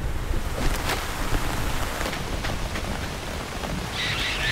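Heavy rain pouring down steadily: a cartoon rainstorm sound effect, with a low rumble under it at first. Near the end a quick series of short, high, falling calls begins.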